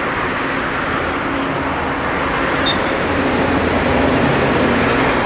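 A motor vehicle engine running near the pitch, heard as low steady tones over a continuous rush of noise that grows a little louder in the second half.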